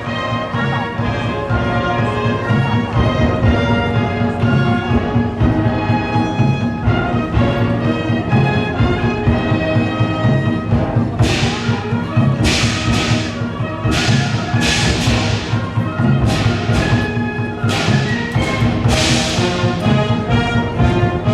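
Wind band playing a lively piece, brass and woodwinds over a pulsing drum beat; from about halfway, repeated cymbal crashes come in.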